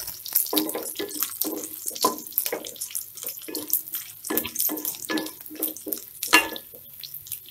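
Drumstick (moringa) pieces and garlic sizzling in hot oil in a kadai, with a wooden spatula scraping and turning them about twice a second.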